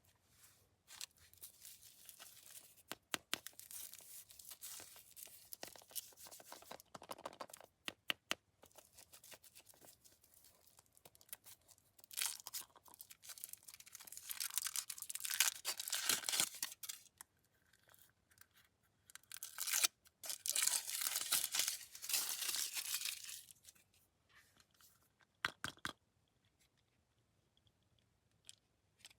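Candy wrappers being torn open and crinkled, in three spells of crackling and ripping with sharp clicks. There are short quiet gaps between the spells.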